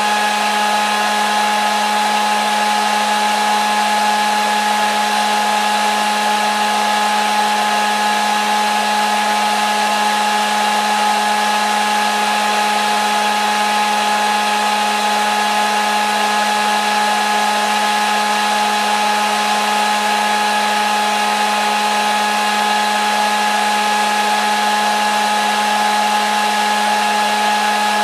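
Hair dryer running steadily: an unchanging rush of air with a constant motor whine.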